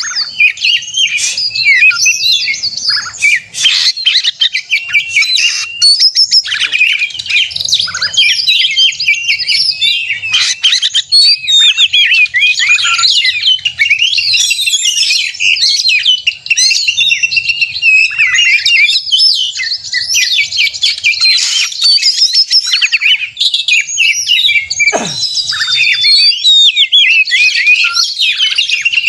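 Oriental magpie-robins (kacer) singing a dense, non-stop stream of rapid, varied whistles and chirps, the excited combative 'gacor narung' song. One long downward-sliding tone sounds about 25 seconds in.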